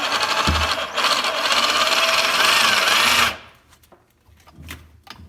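Electric winch motor running as it hoists the jet ski engine out of the hull, then cutting off suddenly about three seconds in. A few faint clicks follow.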